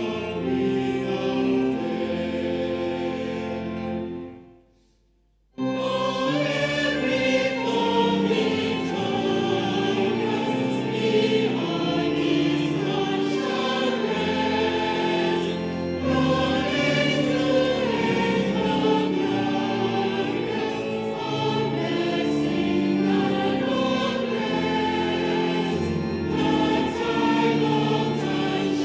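A choir singing a hymn. About four seconds in, the singing fades out, and after a second or so of silence the choral music comes back in suddenly.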